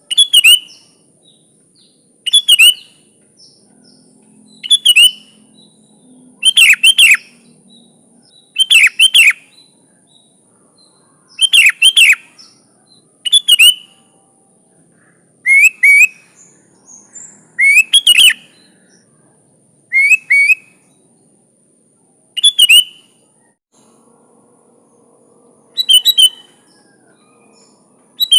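Sooty-headed bulbul (kutilang) calling: short, loud, bubbly phrases repeated about every two seconds, some of them doubled. A faint steady high-pitched tone runs underneath.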